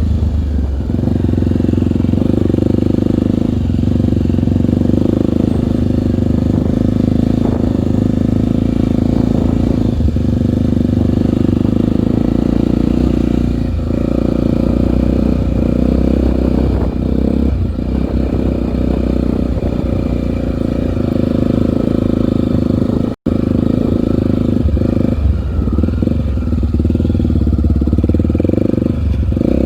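Honda single-cylinder four-stroke trail motorcycle engine running steadily under way, loud and close. The sound cuts out completely for a split second about 23 seconds in.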